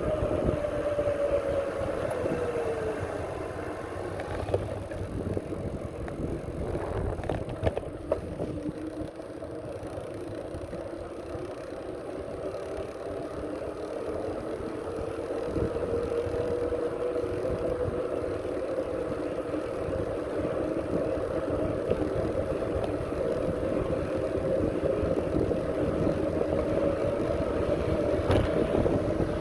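Riding noise from a moving bicycle: wind rumbling on the microphone, with a steady whine whose pitch falls a few seconds in and then drifts slowly up and down.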